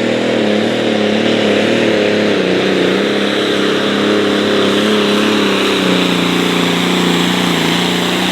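John Deere light-limited pro stock pulling tractor's engine running hard under load as it drags the sled down the track. The engine is loud and steady, its pitch wavering throughout and sagging about six seconds in.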